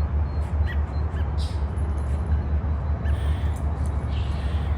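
Several short bird calls scattered over a steady low rumble.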